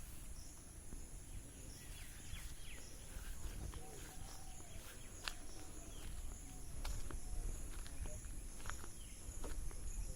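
Outdoor rural ambience: a steady high-pitched insect drone, with scattered sharp clicks and a low rumble.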